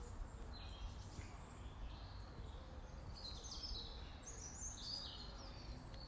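Faint woodland birdsong: wild birds chirping and calling in short high notes, most of them bunched together in the middle, over a low steady background rumble.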